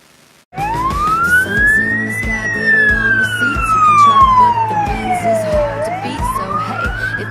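Fire engine siren sounding a slow wail: it cuts in about half a second in, rises, falls slowly for about three and a half seconds, then rises again. Music with a steady beat plays under it.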